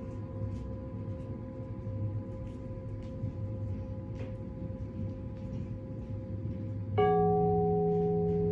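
A struck metal instrument ringing with several steady tones that slowly fade. About seven seconds in it is struck again, starting a fresh, louder and lower ring. A low hum runs underneath.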